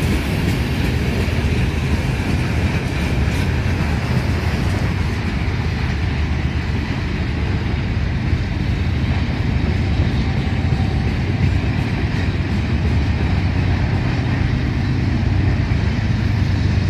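A vehicle running past or under way: a steady, loud, low rumble with no distinct knocks or changes.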